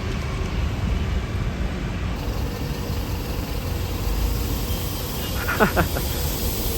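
Road traffic running past, a steady low rumble of passing vehicles, with a few short falling sliding tones about five and a half seconds in.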